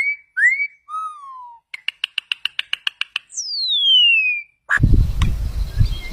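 Bird calls, whistled and pure-toned. A couple of short rising whistles come first, then a lower whistle falling in pitch, a quick run of about eight short notes a second, and one long whistle sliding down from high to lower pitch. Near the end, a noisier recording cuts in, with low rumbling and faint calls.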